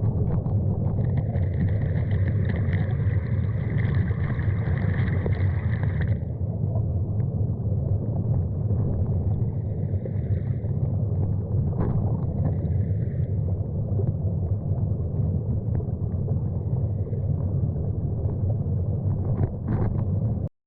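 Steady rushing of a mountain stream, heavy in the low end. A high steady tone sounds over it for a few seconds near the start.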